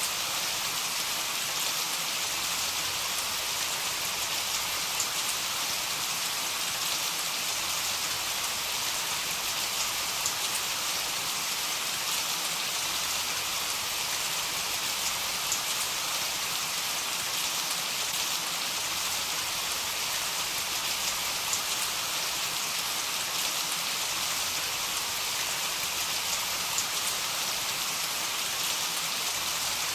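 Heavy rain falling steadily: a constant hiss of rain with faint scattered drop ticks, no change in intensity.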